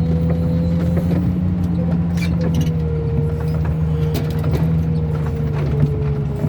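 Loader's diesel engine running steadily at a constant speed, its pitch sagging slightly partway through, with a few light clicks over it.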